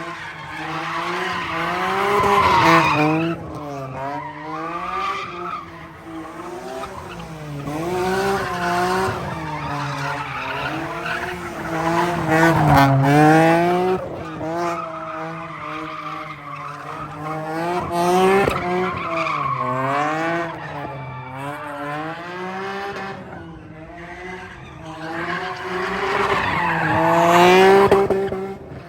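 A car drifting, its engine revving up and down over and over while the tyres squeal. The sound swells louder several times as the car comes round.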